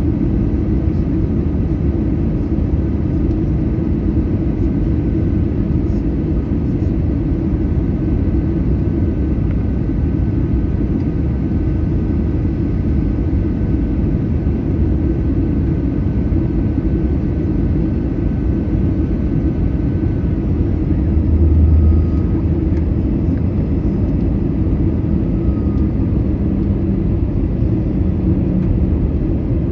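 Airbus A320 cabin noise: a steady, loud low rumble of engines and airflow with a faint high whine. The rumble swells briefly about two-thirds of the way through.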